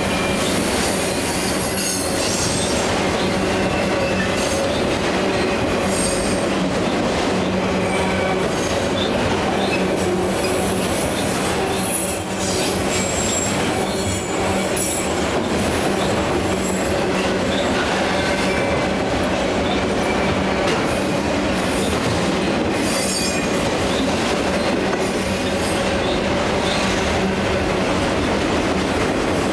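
Freight train of autorack cars rolling past, a steady rumble of steel wheels on rail, with short high-pitched wheel squeals several times.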